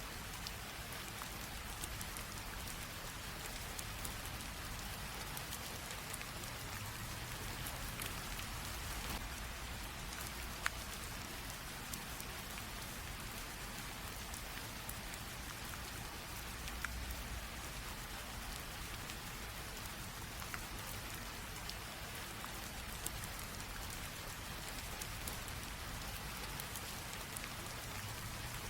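Light rain drizzle: a steady soft hiss of rain with many small drops ticking on surfaces, and a few sharper drips standing out now and then.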